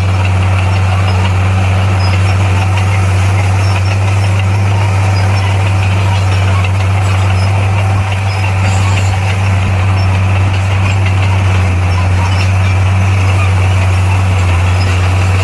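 Diesel engine of heavy earthmoving equipment running steadily at a constant speed, a low, even drone that does not change.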